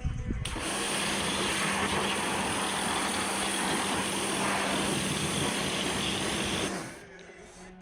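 Kärcher pressure washer running and spraying: a steady rush of the water jet over a low, even motor hum. It starts about half a second in and cuts off sharply near the end.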